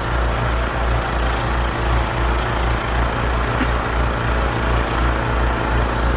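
Snowblower engine running steadily as it clears deep snow, a low, evenly pulsing rumble.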